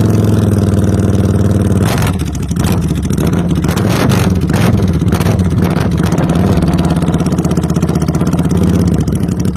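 Suzuki motorcycle engine with a straight-pipe exhaust, running at raised revs for about two seconds. The revs then drop, followed by several quick throttle blips with sharp cracks. It then settles into a steady idle.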